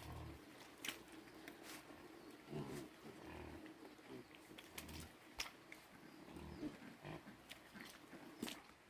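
Pigs grunting: short, low grunts every second or two, with scattered sharp clicks.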